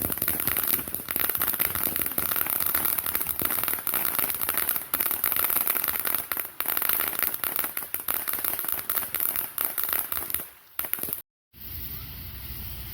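Fireworks crackling, a dense, rapid run of small sharp pops that goes on for about ten seconds and stops suddenly. After a brief dropout, a low rumble of wind on the microphone follows.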